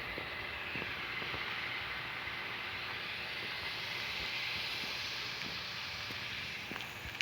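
A steady rushing hiss that cuts off suddenly near the end.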